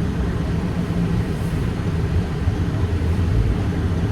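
Steady low rumble of a car, engine and road noise with no distinct events.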